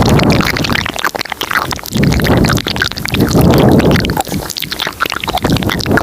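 Layered close-microphone ASMR mouth sounds: dense wet clicks and smacks, over low, breathy swells that come and go every second or two.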